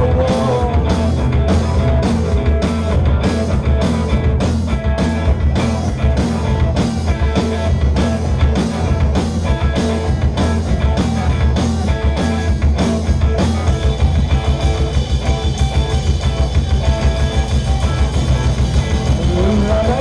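Live rock band playing an instrumental passage: drum kit keeping a steady beat of about two hits a second under bass and electric guitars. About fourteen seconds in, the bass becomes a continuous heavy drone and the rhythm quickens.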